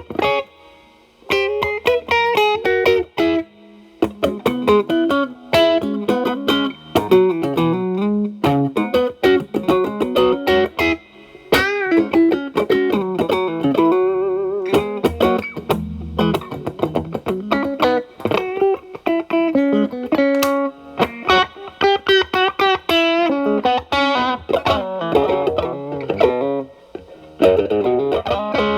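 Electric guitar, a Telecaster, played through an E.W.S. Brute Drive distortion pedal set to low gain into a Marshall Valvestate amp's clean channel. The guitar's volume is rolled back to clean up the drive, so the picked notes and short phrases come out only lightly overdriven. There are brief pauses about a second in and around four seconds in.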